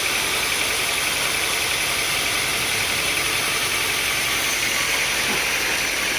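Sawmill machinery running steadily: an even engine-like drone with a constant hiss on top, with no cut or change in load.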